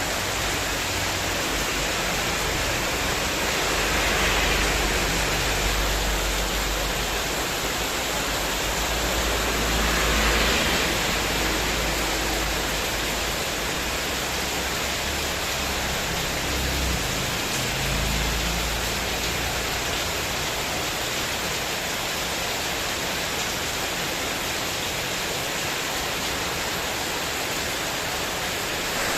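Heavy rain in strong gusting wind, pouring steadily on a spandek metal terrace roof. The storm swells twice, about four and ten seconds in, with a low rumble through the middle stretch.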